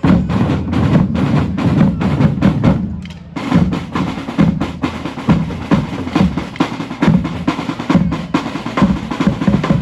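A drum band playing together: dense, fast drum strokes that start together, ease briefly about three seconds in, and stop together at the end.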